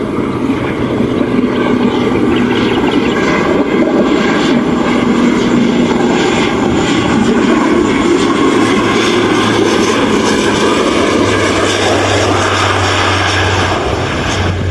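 Loud, steady aircraft engine noise with a low hum underneath, the hum dropping in pitch in the second half.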